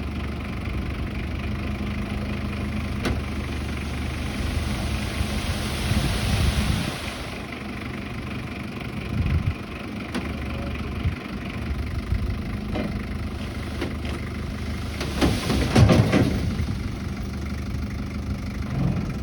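A motor running steadily with a low hum, with a hiss about four to seven seconds in and a louder burst of knocking and clatter around fifteen seconds in.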